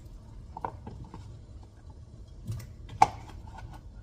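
A few sharp knocks and clatters of pieces and a utensil against a cooking pot as cut pumpkin is added, the loudest a single hard knock about three seconds in.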